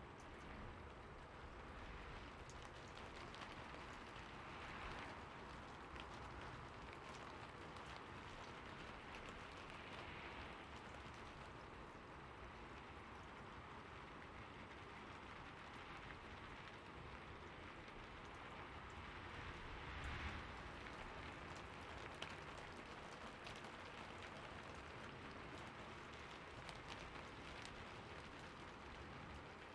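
Steady rainfall: a soft, even hiss with many small drop ticks, swelling briefly a few times.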